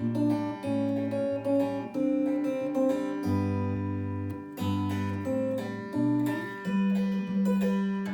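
Solo acoustic guitar playing an instrumental arrangement of the song, picked notes over changing chords, settling on a held chord that rings out and fades near the end.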